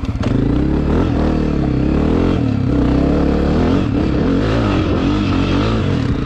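Dirt bike engine running under way, its pitch rising and falling as the throttle is opened and eased off.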